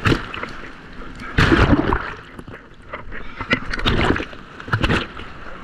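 Surf waves breaking and splashing around a person wading in the sea, coming in irregular surges, the loudest about one and a half seconds in.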